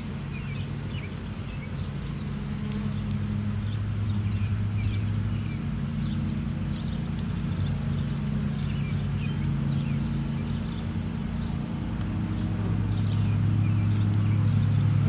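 Honeybees buzzing as a steady hum around an opened hive, growing louder near the end, with small birds chirping.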